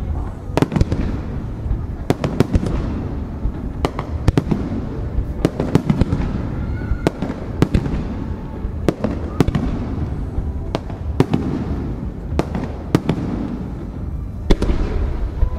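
Aerial firework shells bursting overhead at close range: a string of sharp bangs, often coming in close pairs, about one to two a second, over a continuous low rumble.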